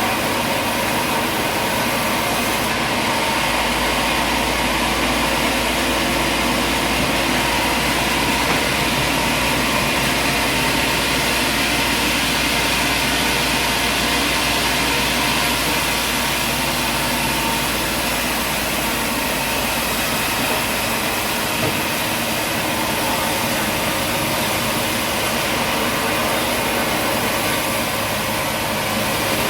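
A machine or engine running steadily, an even mechanical noise with a faint steady hum, unchanging throughout.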